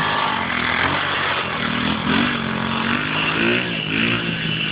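Dirt bike engine running, its revs rising and falling several times in the second half.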